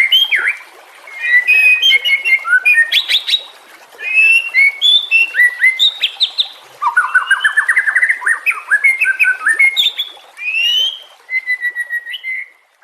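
White-rumped shama (murai batu) singing: a fast, varied stream of loud whistled phrases, sweeping glides and rapid trills, broken by a few short pauses.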